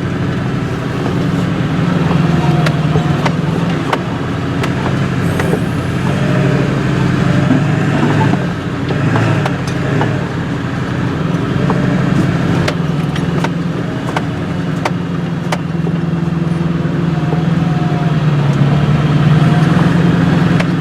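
Truck driving slowly over a rough dirt woods road: steady engine drone rising and easing a little, with scattered knocks and rattles from the bumps.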